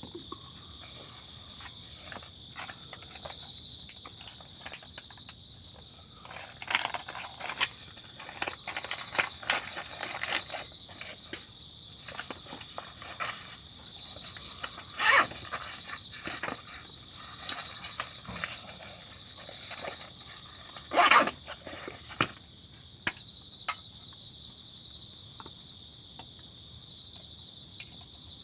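Crickets chirping steadily in a fast, even pulse. Scattered clicks and knocks run over them, with two louder brief noisy bursts about fifteen and twenty-one seconds in.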